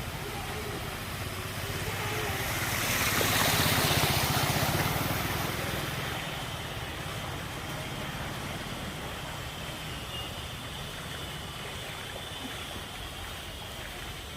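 A vehicle moves through floodwater on a waterlogged road. The rush of displaced water swells for a few seconds and fades, over a steady low engine hum.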